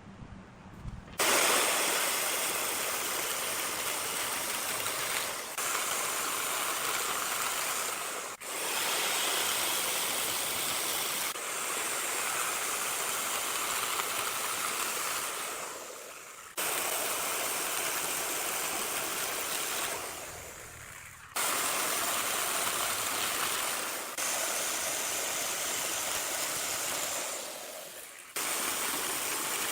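Steady hissing noise of woodworking machinery, changing suddenly in level every few seconds.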